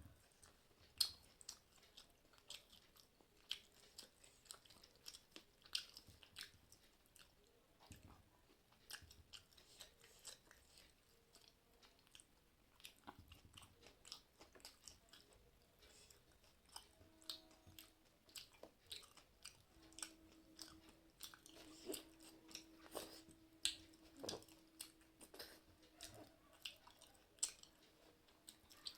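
Soft, close chewing and mouth clicks of a person eating a meal, irregular small smacks and bites throughout. A faint steady hum comes in a little past halfway.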